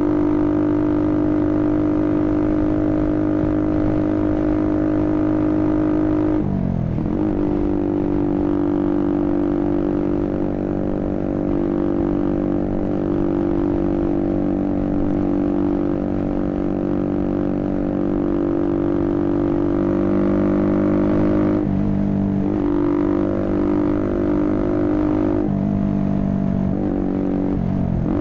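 Motorcycle engine running with a steady droning note; its pitch dips briefly and comes back four times, about a quarter of the way in, twice later on, and near the end.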